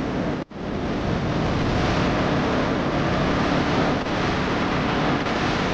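Machine engine running with a low steady hum under a loud, steady rushing noise, cut off briefly about half a second in.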